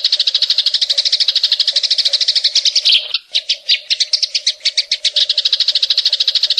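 Green leafbird (cucak ijo) singing a fast, even trill of sharp chirps, about a dozen a second: the 'tembakan cililin' shooting phrase. It breaks off briefly about three seconds in, then resumes.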